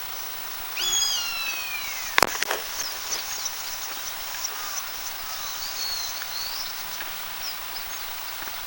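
Eastern buzzard giving one long alarm call that slides down in pitch, about a second in. A sharp click follows right after it, with faint short high chirps in the background.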